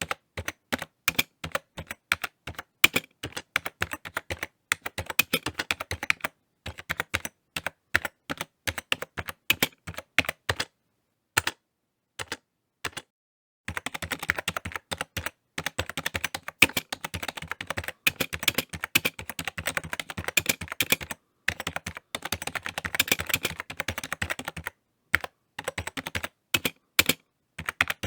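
Typing on a computer keyboard: runs of quick keystroke clicks with short pauses, stopping for about two seconds near the middle, then picking up again faster.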